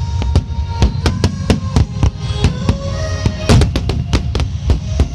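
Rapid fireworks bursts, several bangs a second with a heavy cluster about three and a half seconds in, over music with held notes.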